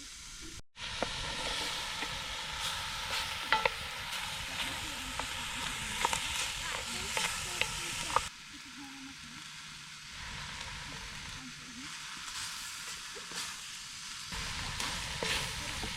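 Campfire cooking: a steady sizzling hiss with many sharp crackles and pops, dropping out briefly under a second in and turning quieter about eight seconds in.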